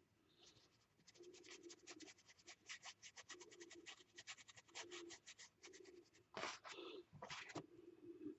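Faint scratching of a wet paintbrush worked quickly back and forth over a gessoed paper page, several strokes a second, with a few heavier strokes near the end.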